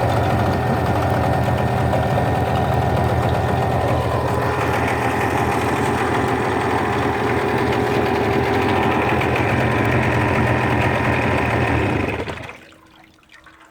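Hidea 9.9 outboard motor running steadily at idle, then shut off about twelve seconds in, its sound cutting out abruptly.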